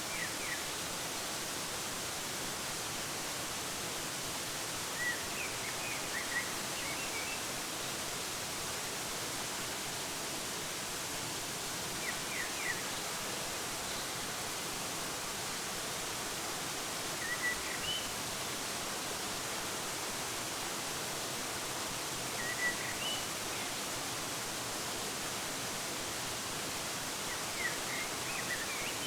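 Steady, even rush of a waterfall, with short bursts of bird chirps about every five seconds.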